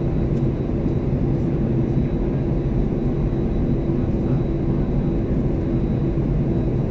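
Steady cabin drone of an Airbus A320-214's CFM56 engines at idle thrust on the ground before takeoff, with a low even rumble and a few steady hum tones, heard from inside the cabin.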